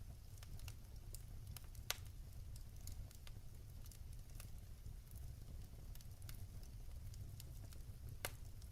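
Fire crackling in a fireplace: an irregular run of small snaps, with two louder pops about two seconds in and near the end, over a low steady rumble.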